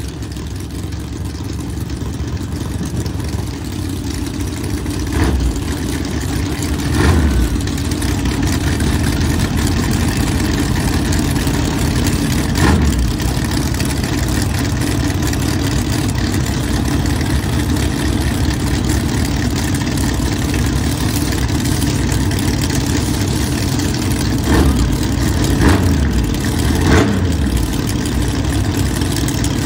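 Drag race car engines idling at the starting line, growing louder over the first several seconds, with a few brief throttle blips.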